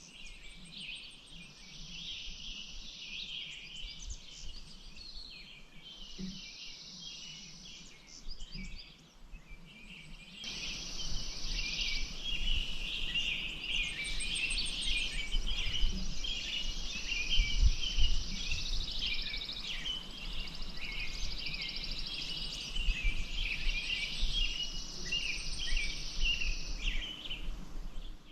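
Several songbirds singing and calling over one another in a continuous chorus, with a low rumble underneath. The chorus grows louder about ten seconds in.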